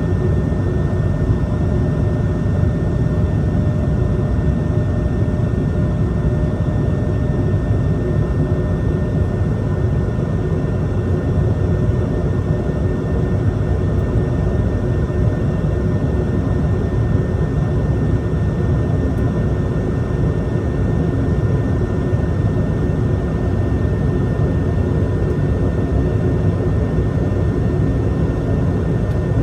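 Jet airliner engines running at a steady, unchanging level: a low rumble with a few steady whining tones over it.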